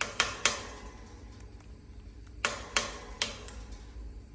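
Sharp tapping knocks from a pet drumming on or batting at an object: two quick knocks at the start, then four more spread over about a second, some two and a half seconds in.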